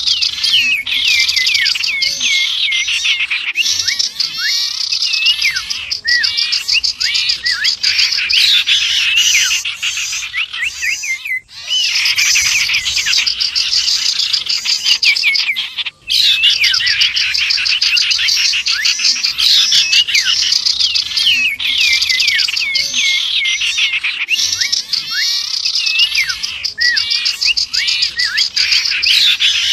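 A dense, unbroken chorus of small songbirds chirping and trilling rapidly, a mixed bird-lure recording built around common iora (cipoh) calls. It breaks off sharply twice, about 11 and 16 seconds in.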